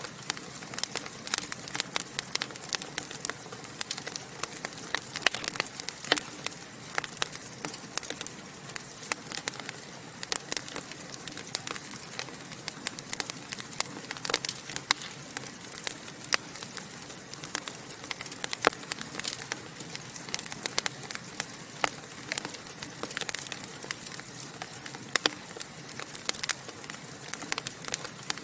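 Wood fire in a fireplace crackling and popping, a dense, irregular run of sharp pops over the soft hiss of the flames.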